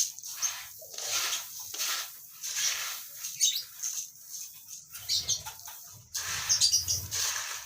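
Lovebirds kept together in a colony, chattering and screeching in repeated short, shrill bursts.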